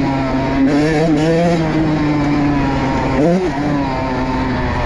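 Motorcycle engine running hard at fairly steady revs, with a quick drop and rise in pitch about three seconds in, as a gear change or throttle roll-off would give.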